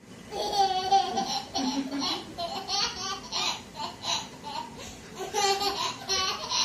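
A baby laughing in repeated high-pitched fits of short giggles.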